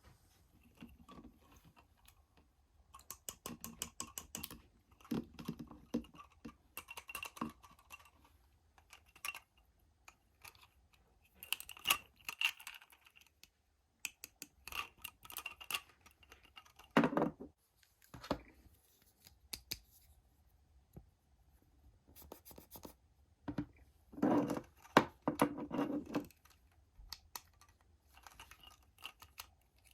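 Hands handling Hot Wheels toy cars and their plastic and cardboard packaging: irregular clicks, scratches and rustles, with a few louder knocks about halfway and near the end.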